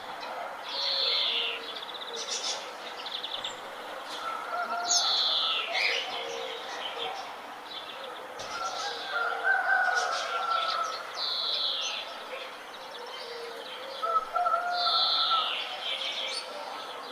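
Several birds singing in a morning chorus. One bird repeats a loud, high, slightly falling phrase four times, every three to five seconds, over lower warbling calls from other birds.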